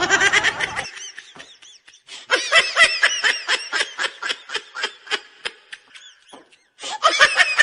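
High-pitched laughter in quick repeated bursts, several a second. It comes in three runs: a short one at the start, a long one from about two seconds in, and another near the end.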